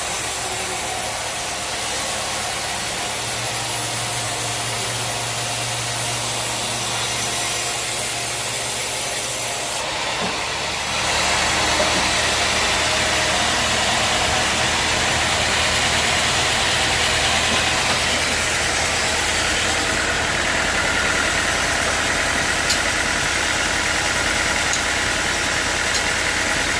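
Sawmill machinery running steadily with a motor hum. About ten seconds in it becomes louder and fuller and stays that way.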